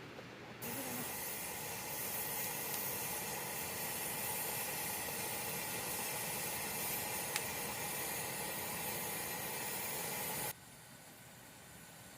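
Pressurised camping stove (Omni burner) running with a steady hiss of burning fuel. The hiss starts abruptly, and cuts off suddenly about ten seconds in.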